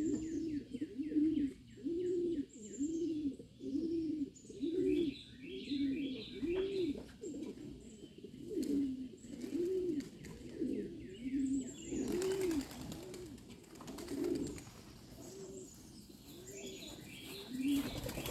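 Domestic pigeons cooing over and over, a low rolling coo about once a second, with higher bird chirps above it. A brief rush of noise comes about two-thirds of the way through.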